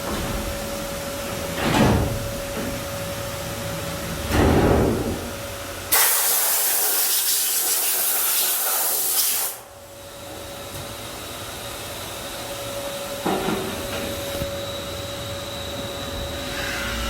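Ski base stone-grinding machine running with a steady hum. Two short swells come early, then a loud hiss from about six seconds in lasts roughly three and a half seconds and cuts off suddenly.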